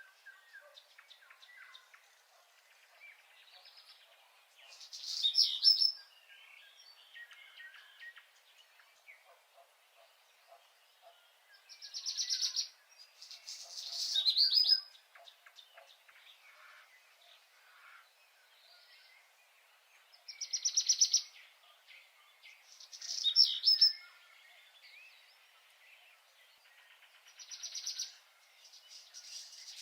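Songbirds singing. One bird repeats a loud phrase of about a second, a rapid trill with a falling note, six times, every few seconds, over fainter chirping from other birds.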